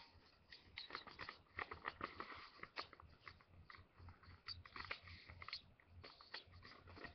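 A sheet of paper being folded and creased by hand: faint, irregular crinkles and rustles.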